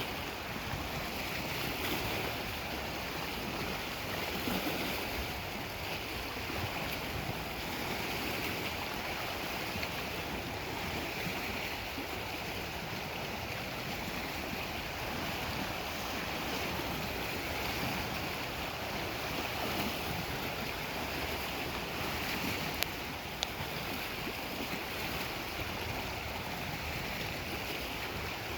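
Lake Superior waves washing steadily against the shore, swelling and easing every couple of seconds.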